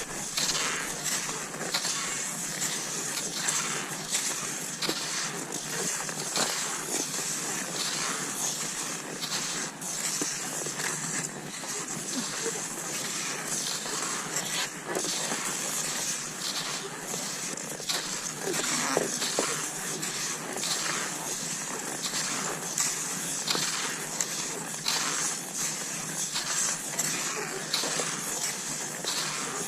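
Cross-country skis swishing and crunching over snow in a steady stride rhythm, about once or twice a second.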